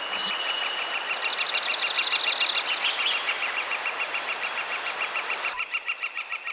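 Outdoor nature sound of birds trilling. A high trill of rapid, even pulses runs steadily throughout, joined by a faster, higher trill from about one to three seconds in. Both sit over a steady hiss that drops away near the end.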